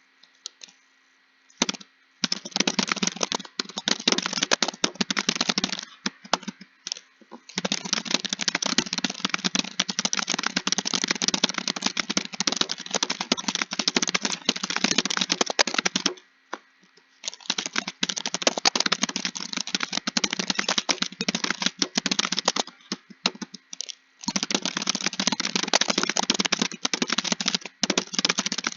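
Computer keyboard typed fast, a dense run of key clicks. It starts after a short silence, comes in bursts at first, then runs in long streaks broken by two brief pauses.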